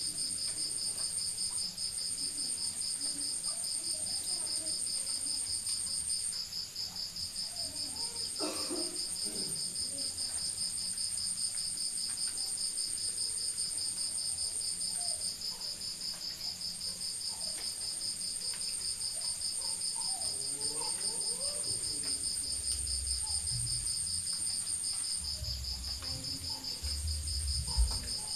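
Crickets trilling in a steady night chorus: one continuous fast-pulsing trill, with a higher trill over it that stops and starts. A low rumble comes in during the last few seconds.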